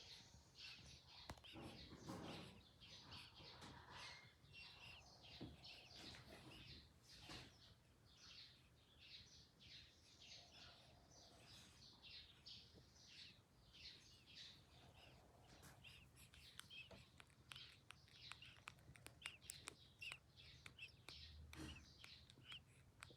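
Faint bird chirping: short high chirps repeating one to two times a second, with a few soft clicks now and then.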